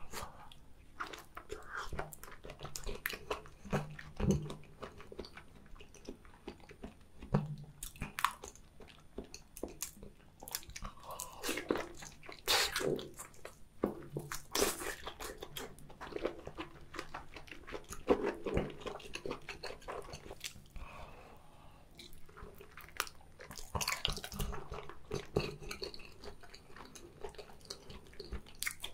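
Close-miked chewing and biting of raw salmon sashimi and octopus: wet mouth sounds with many irregular small clicks and smacks, and a louder bite now and then.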